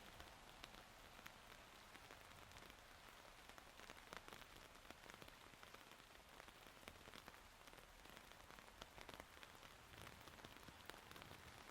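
Faint, steady rainfall, with many small irregular ticks of drops striking surfaces.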